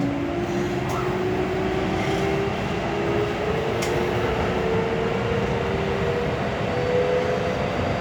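Kintetsu electric train's traction motors whining: a couple of tones climb slowly in pitch as the train picks up speed, over steady running noise from wheels and rails, heard from inside the car.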